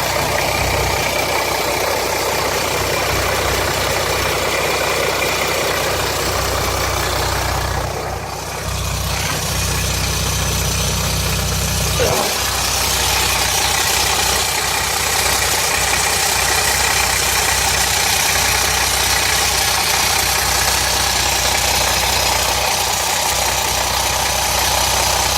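Jeep Grand Cherokee 3.0 CRD (Mercedes OM642 V6 turbodiesel) idling steadily with a rattle. The owner suspects timing chain guides breaking up and a blocked oil pickup; the oil-pressure light comes on at idle.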